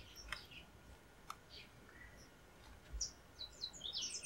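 Small birds chirping: a quick run of short, high chirps about three seconds in, with a few faint chirps and a couple of faint clicks before it.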